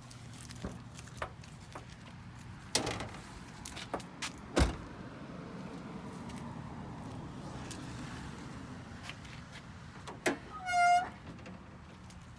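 Scattered clicks and knocks of parts and tools being handled in a Jeep's engine bay, the loudest about four and a half seconds in, with a brief high squeak near the end.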